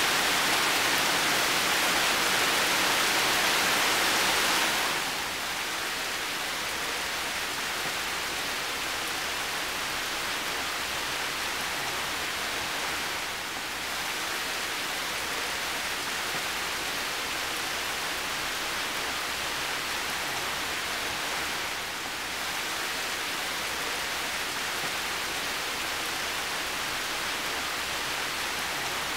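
Rain falling in a steady hiss, a little louder for about the first five seconds and then easing to an even level.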